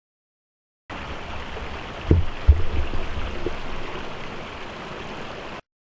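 River water flowing as a steady rushing noise, with a few low thumps about two seconds in.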